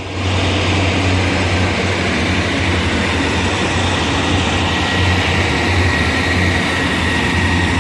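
Two-car diesel multiple unit train, a Class 142 Pacer coupled to a Class 155 Sprinter, pulling out of the station with its underfloor diesel engines running under power: a loud, steady, deep drone with wheel and rail noise.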